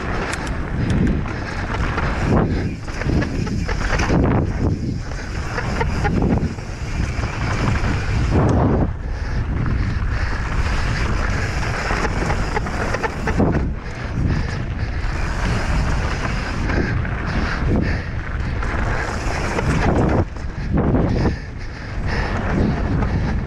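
Wind buffeting the microphone of a rider-mounted camera as a mountain bike descends fast, with the bike knocking and rattling over rough ground throughout.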